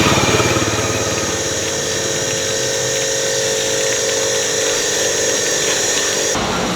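A machine running steadily with a rapid, even pulsing and a steady hum, switching suddenly to a different mechanical sound near the end.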